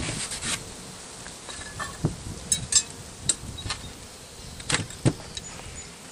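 Honeybees buzzing at an open hive, with several sharp knocks and scrapes of wooden hive parts being handled, the loudest between about two and five seconds in.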